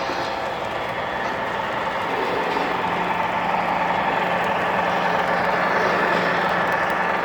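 O scale three-rail model train running on the track: a long train of cars rolling with a steady rumble and a few steady tones, growing a little louder through the middle.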